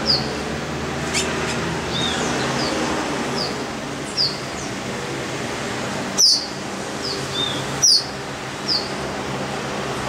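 A bird repeating short, high, downward-sliding chirps, roughly one a second, with two louder ones a little past the middle, over a steady low hum.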